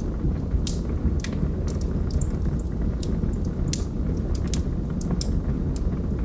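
Wood logs burning in a fireplace: a steady low rumble of the fire with a dozen or so irregular, sharp crackles and pops from the burning wood.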